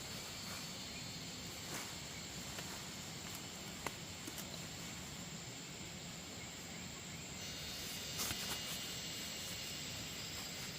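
Steady outdoor background of insects trilling, with a single light click about four seconds in and a short cluster of clicks near the end.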